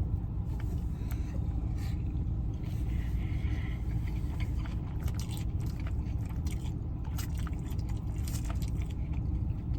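Close-up chewing and biting of food, with scattered sharp clicks and crunches, thickest in the second half, over a steady low rumble.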